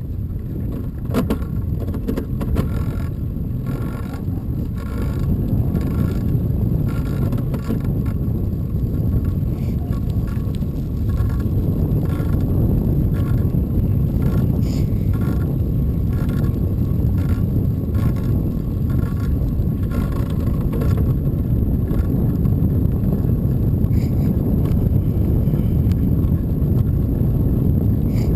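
Wind buffeting the microphone and tyre noise from a bicycle being ridden, a steady low rumble that grows louder over the first few seconds. A faint regular ticking, about two a second, runs through the first half.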